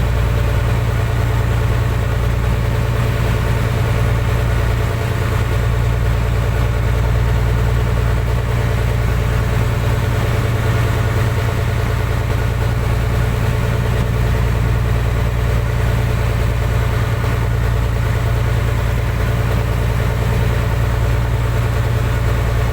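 Fishing boat's engine running steadily at an even speed, a low constant hum that does not change.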